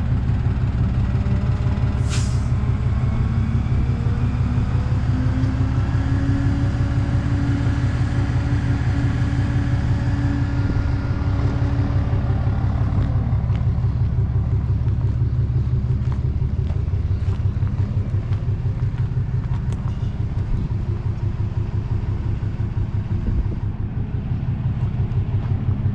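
Heavy tow truck's diesel engine running steadily, with a short air hiss about two seconds in. From about four seconds a whine rises slowly in pitch for some nine seconds, then stops.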